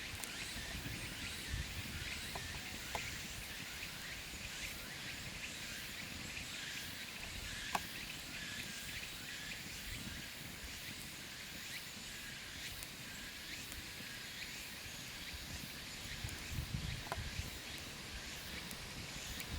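Quiet outdoor ambience: a steady high hiss, an uneven low rumble like wind, and a few faint clicks or snaps.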